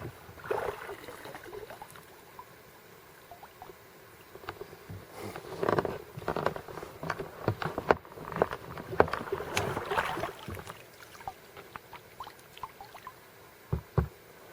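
Kayak paddling on a lake: irregular splashes of the paddle in the water mixed with sharp knocks.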